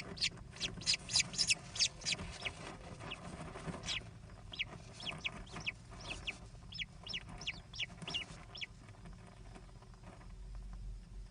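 American kestrel calling: a rapid series of short, high, sharp notes, about three or four a second, thinning out and stopping about nine seconds in.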